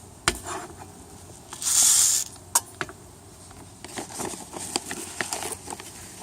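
Bird seed being poured into a squirrel-proof bird feeder, with a brief rush of seed about two seconds in. Sharp clicks and small rattles come from the feeder being handled.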